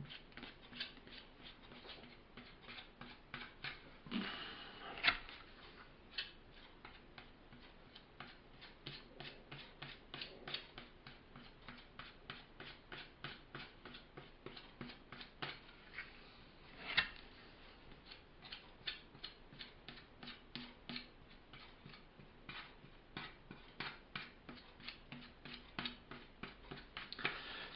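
Faint, quick scrapes and clicks of a filling knife working soft filler along the edge of a shelf, about two to three strokes a second. There are a couple of louder knocks, about five and seventeen seconds in.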